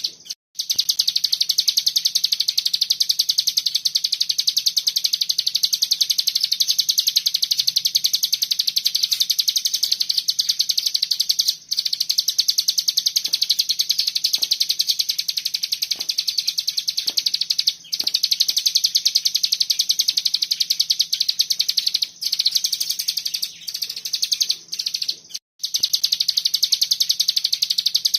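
A cigun (ciblek gunung) songbird singing its rapid, unbroken 'ngebren' trill, a fast machine-gun-like stream of high notes with only a few brief pauses.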